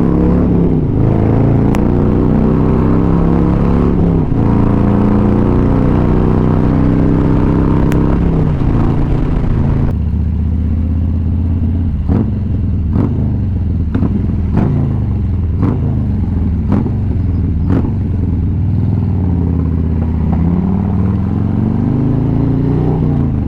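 Motorcycle engine running under way, with wind noise on the microphone. About ten seconds in, the wind noise eases, and the engine pitch then dips and rises again about once a second for several seconds.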